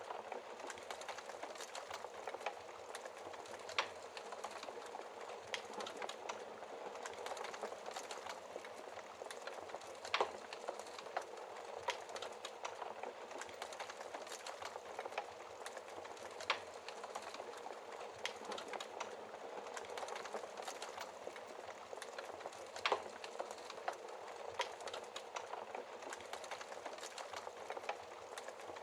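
Wood fire crackling in a fireplace: a steady soft hiss with many small snaps and a louder pop every six seconds or so.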